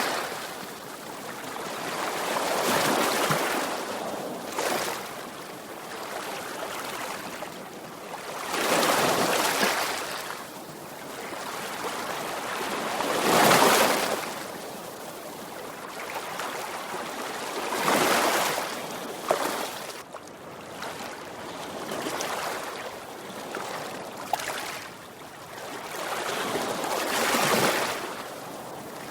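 Sea waves breaking and washing on the shore, a surge every four or five seconds, the loudest about halfway through.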